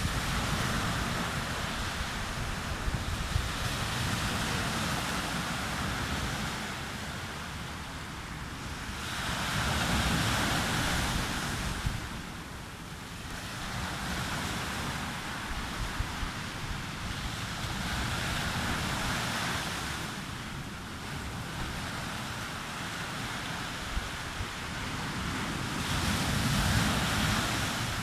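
Sea waves breaking on a beach, the surf swelling and ebbing every several seconds, with wind buffeting the microphone as a low rumble underneath.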